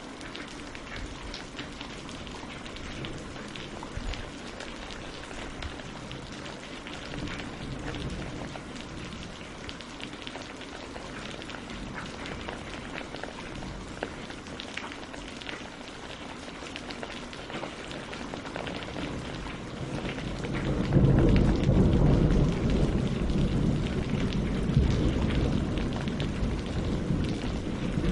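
Steady rain falling on tree leaves and lake water, with scattered drops ticking. About two-thirds of the way through, a loud low rumble of thunder swells in and keeps rolling.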